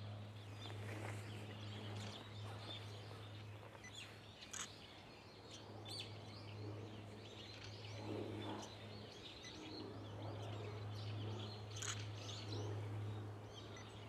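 A few short, sharp bird chirps from wild birds at a water spot, scattered through a steady low hum.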